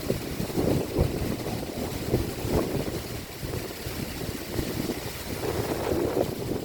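Wind buffeting the microphone in gusts, a low noise that swells and eases irregularly.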